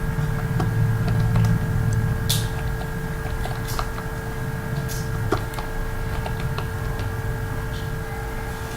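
Computer keyboard keys clicking irregularly, a few scattered taps, over a steady electrical hum and low rumble.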